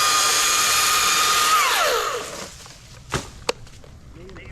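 Gas chainsaw held at full throttle at a steady high pitch, then released so the engine winds down to idle about two seconds in. A couple of sharp knocks follow.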